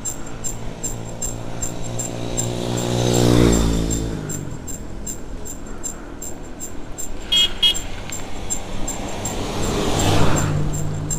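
Front disc-brake rotor of an Exotic ET2613 mountain bike rubbing on the pads once per wheel turn, a thin squeak repeating evenly several times a second while riding; the rotor is off-centre and slightly bent. A motor vehicle passes, swelling and fading, about three seconds in and again near the end.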